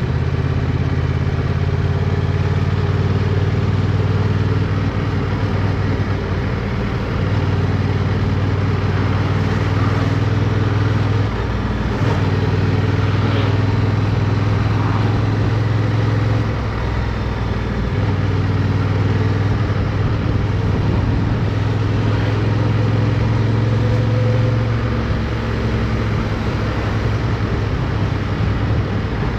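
Motorcycle engine running under way, recorded by a camera mounted on the bike, with noise over the engine. The engine note holds steady for stretches and shifts in steps a few times, about a third of the way in, around the middle and again past two-thirds, as the throttle or gear changes through the turns.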